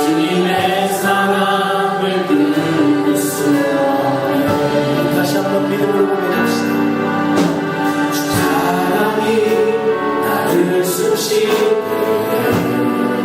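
Christian worship music: a choir singing held, sustained notes together.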